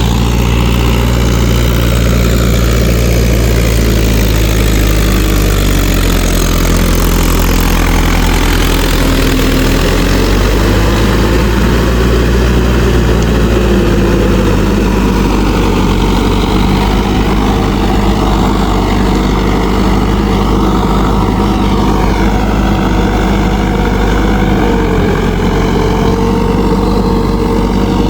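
Mahindra 585 DI tractor's diesel engine running steadily, with small shifts in engine speed.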